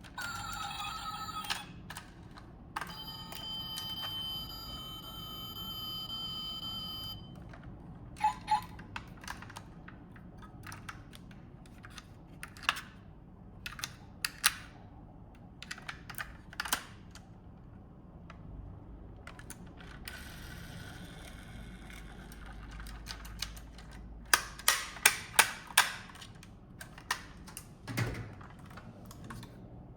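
Scattered sharp clicks and taps, with a quick run of them about three-quarters of the way through, typical of small hinged parts on a diecast model car being opened and shut. A few seconds in, a steady held tone sounds for about four seconds.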